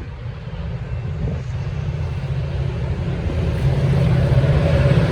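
Diesel locomotive approaching on the line, a low engine rumble growing steadily louder, with a deeper steady engine tone coming in near the end.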